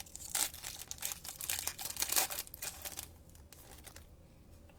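Plastic wrapper of a trading-card pack being torn open and crinkled by hand, with irregular crackling for about three seconds before it goes quiet.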